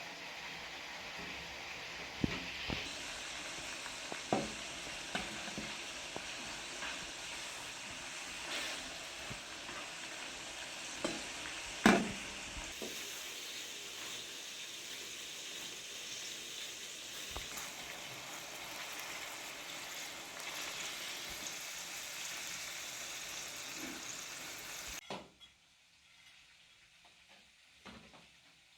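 Food sizzling as it fries, a steady hiss with a few sharp knocks of a utensil against the pan, the loudest about twelve seconds in. The sizzling stops abruptly a few seconds before the end.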